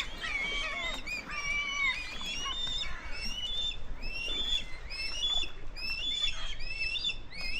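Many birds calling together over a feeding site: a continuous overlapping chorus of short, high, whistled calls, each bending in pitch.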